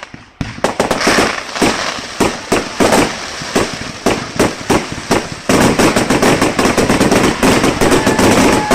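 Fireworks going off in a rapid, irregular series of sharp bangs, thickening about five and a half seconds in into a dense, continuous crackle.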